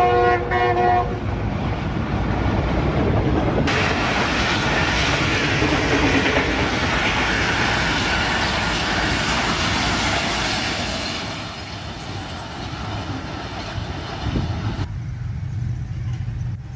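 Passenger express train running through a station at speed: the locomotive's multi-tone horn chord ends about a second in, then the coaches pass with a loud steady rush and rattle that falls away sharply near the end as the last coach clears, leaving a low rumble.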